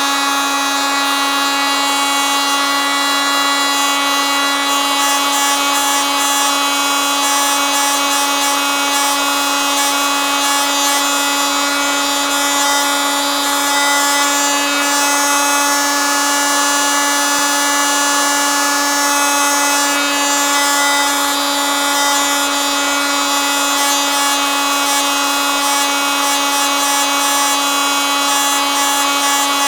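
Oscillating multitool running continuously at a constant speed, a steady buzz that holds one pitch.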